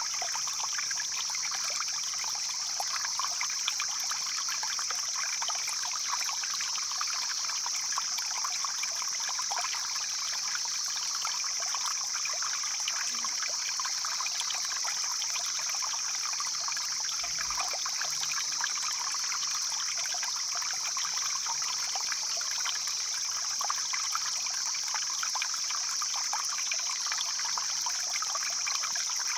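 Mountain stream flowing and trickling over rocks, steady and unbroken, with a steady high-pitched hiss held over it.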